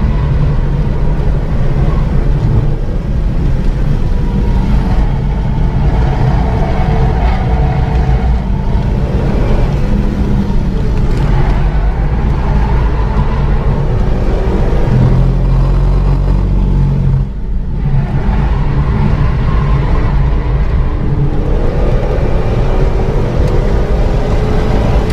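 Renault Mégane 3 RS Trophy's turbocharged 2.0-litre four-cylinder, remapped to about 306 hp, running hard at speed, its note rising and falling as it goes through the gears. The sound drops off sharply for a moment about seventeen seconds in.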